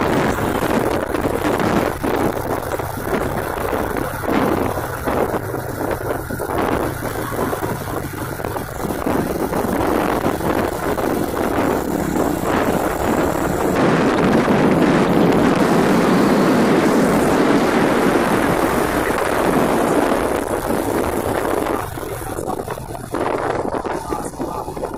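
Truck engines and road noise with wind buffeting the microphone, swelling louder about halfway through and easing off near the end.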